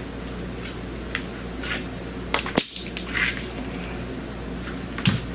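Manifold gauge hose coupler pulled off a car's AC low-side service port, letting out a short sharp hiss of compressed air about two and a half seconds in, with a few light clicks of handling around it.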